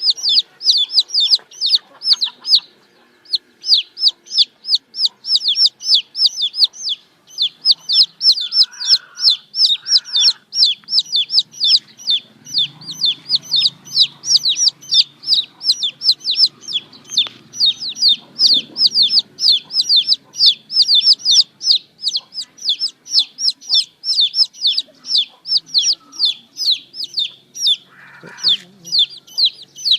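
Baby chicks peeping without a break: a fast run of short, high peeps that slide downward, about four or five a second.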